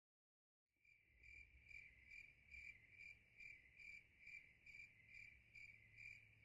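Faint cricket chirping in a steady rhythm, about two and a half chirps a second, over a low steady hum. It starts just under a second in, after a moment of dead silence.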